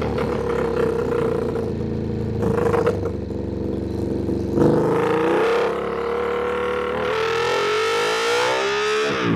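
Ducati Panigale V2's V-twin engine under way: running steadily, then about halfway the revs rise steadily under acceleration, dropping sharply at an upshift near the end.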